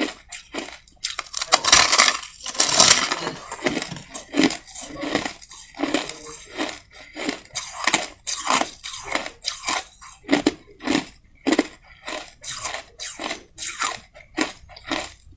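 Close-miked chewing of soft crushed ice: a rapid run of crisp crunches, about two or three a second, with a denser, louder stretch of crunching near the start.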